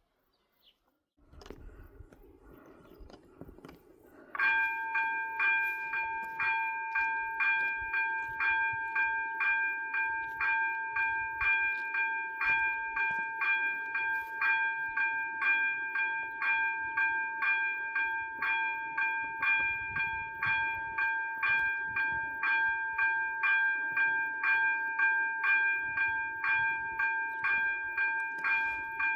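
Level crossing warning bells, AŽD ZV-02 electronic bells, start ringing suddenly about four seconds in with an even, rapid ding-ding of about two strikes a second, signalling the crossing's warning for an approaching train. A steady low rumble runs beneath from a little over a second in.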